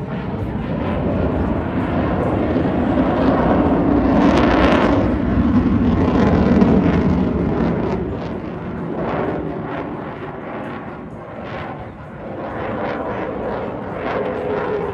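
Military jet aircraft flying past: a loud rush of jet noise that builds over the first few seconds, peaks around the middle and tails off, then swells again near the end.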